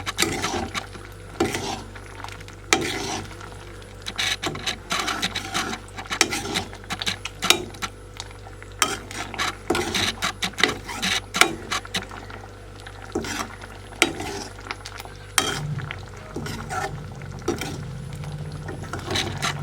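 A utensil clinking and scraping in a cooking pot while a fish curry is stirred, in short irregular strokes.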